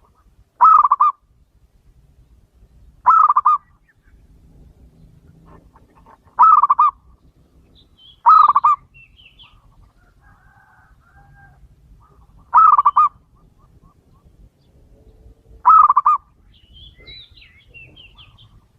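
Male zebra dove (perkutut) cooing: six short, trilling coos a few seconds apart. Faint chirps from other small birds can be heard between them.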